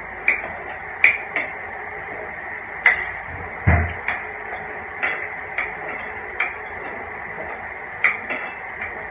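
Irregular light clicks and taps of someone eating, roughly one a second, with a single low thump about three and a half seconds in, over a steady background hum.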